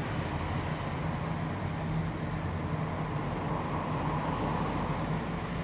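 Steady background rumble with a low hum, unchanging throughout, like distant traffic or a running engine.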